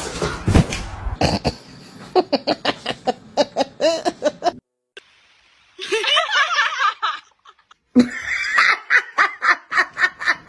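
A person laughing hard in rapid bursts, two long runs of laughter with a high, wavering cry in between.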